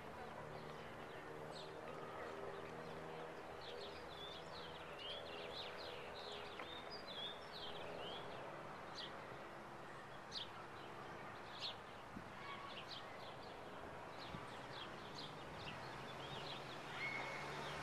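Small birds chirping in many quick, short high calls, thickest through the middle stretch, over a faint steady low hum and outdoor background noise.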